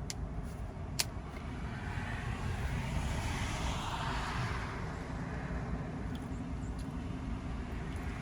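Steady low vehicle rumble, with a passing vehicle's noise swelling and fading over a few seconds. Two sharp clicks at the start and about a second in.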